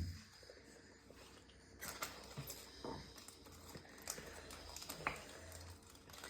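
A soft knock, then faint scattered clicks and scrapes of tableware being handled over a low steady hum.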